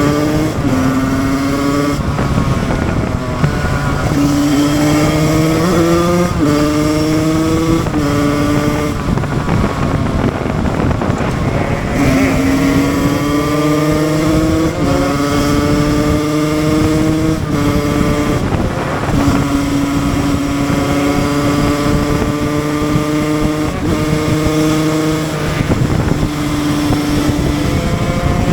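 Husqvarna SM 125 two-stroke supermoto engine pulling hard through the gears: its pitch climbs steadily in each gear and drops at each upshift, several shifts in a row with a short easing off the throttle midway.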